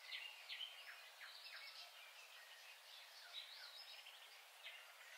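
Faint birds chirping: many short, quick calls overlapping over a light hiss.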